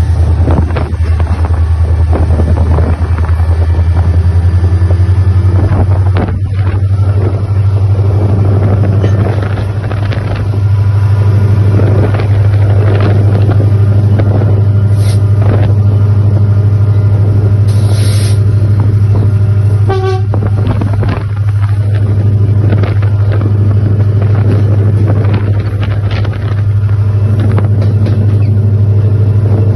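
Long passenger train passing close, with a heavy steady low rumble and irregular clattering of wheels over the rails throughout.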